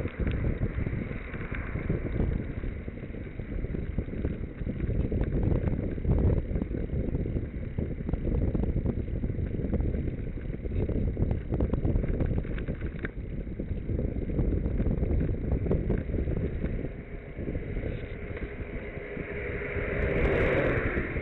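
Wind buffeting the microphone on a moving bicycle: a low, fluctuating rumble with scattered small knocks and rattles. Near the end a steady pitched hum swells in.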